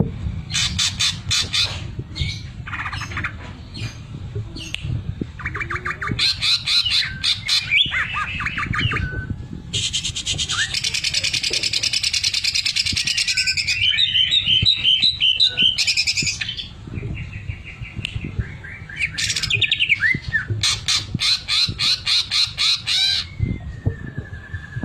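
Green leafbird (cucak ijo) in full song, with fast machine-like rattling trills that imitate a sewing machine, mixed with harsh hissing notes and short whistles.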